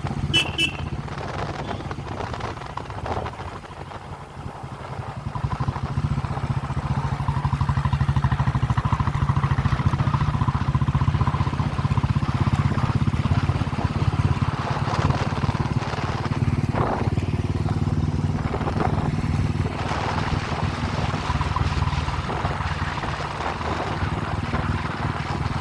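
Motorcycle engine running steadily while riding, easing off briefly about four seconds in before picking up again.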